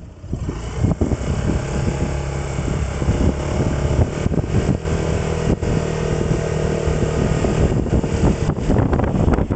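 Motor vehicle engine running at a steady speed, its even drone holding pitch for several seconds.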